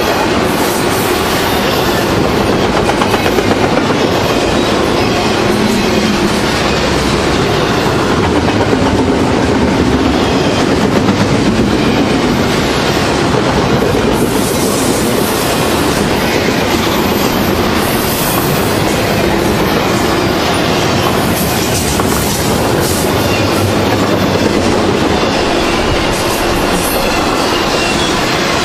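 Double-stack intermodal freight train's well cars rolling past: a steady heavy rumble of steel wheels on rail with a continuous clatter of wheels over the track, and a few faint high wheel squeals near the middle.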